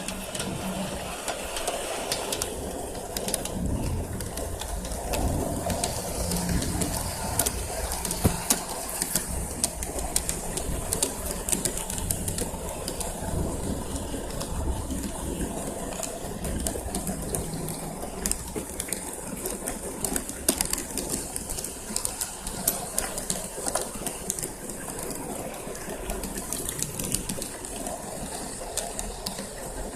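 Garden-scale LGB model train running on outdoor track with a small electric motor hum and many small clicks from the wheels and track, while a dove coos in the background.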